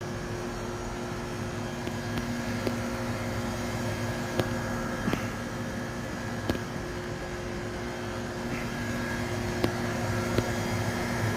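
Display refrigerator's refrigeration unit running with a steady hum of several low tones, with a few faint ticks.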